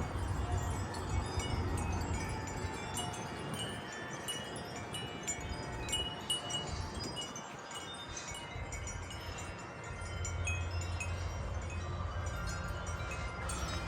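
Wind chimes ringing in a strong gust, many overlapping tones struck at random, over wind rumbling on the microphone that eases in the middle and picks up again near the end.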